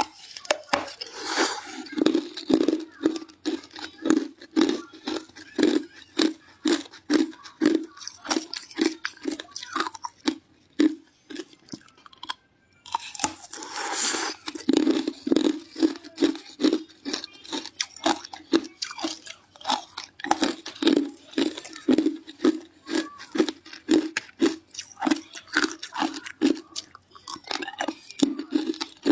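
Ice being bitten and chewed close to the microphone: a steady run of crisp crunches at about two to three a second. About twelve seconds in it breaks off briefly, then a fresh, louder bite follows and the chewing carries on.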